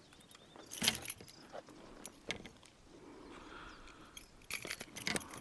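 Metal fishing lure and hooks jangling and clinking while a small pike is unhooked. There is one sharp clink about a second in, another a little after two seconds, and a quicker run of clinks near the end.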